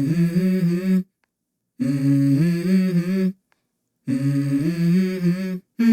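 A voice humming the same short tune three times, each phrase cut off abruptly by dead silence.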